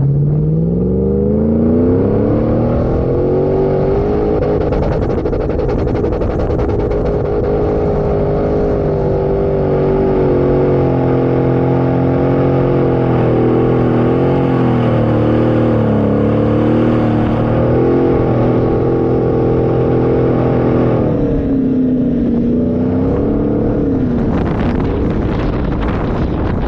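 Off-road 4x4 engine revving up hard and held at high revs, its pitch wavering with the throttle, then easing off about three-quarters of the way through.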